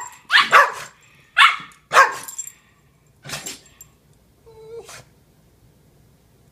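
Dogs barking during rough play-fighting: a quick run of sharp barks in the first couple of seconds, a softer one after about three seconds, then a short high whine.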